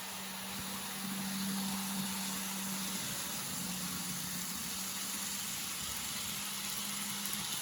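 N scale model train running on the layout: the locomotive's small motor gives a steady low hum over the faint rattle of wheels on the rails.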